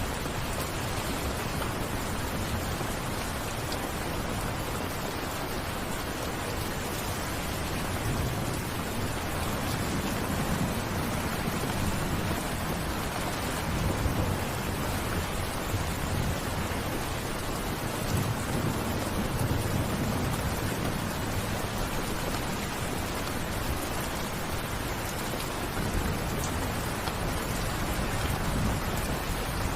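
Steady rain falling, with a few low rumbles of thunder swelling and fading.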